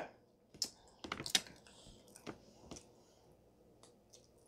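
Close-miked chewing of a bite of toasted ham-and-cheese sandwich: faint, scattered wet mouth clicks, a cluster of them about a second in, then a few sparser ones.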